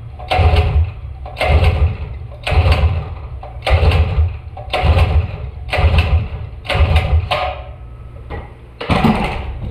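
Predator 212cc engine being pull-started over and over, about eight short cranking pulls roughly a second apart with a gap before the last one, never catching: the engine is dead and won't run.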